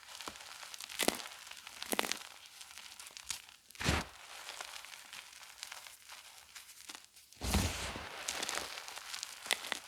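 Gym chalk being crushed and crumbled: scattered sharp crunches, the loudest about four seconds in, then a denser burst of crumbling a little after seven seconds, with faint crackling between.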